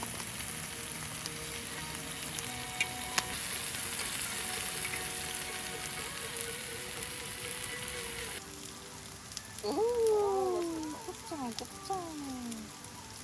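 Beef intestines (gopchang and daechang) sizzling as they fry in a pan. The sizzle cuts off abruptly about eight seconds in. Near the end come a few seconds of sliding, mostly falling tones.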